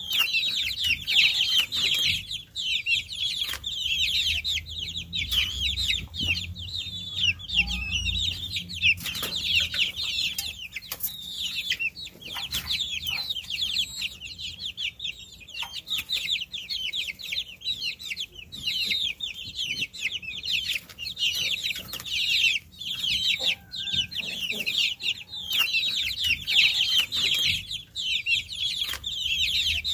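A brood of baby chicks peeping continuously, many high, short, downward-sliding chirps overlapping, with a few soft clicks and knocks among them.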